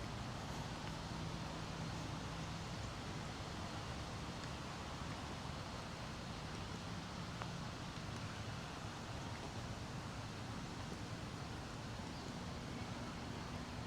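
Steady, faint outdoor background noise with a low hum underneath and no distinct events.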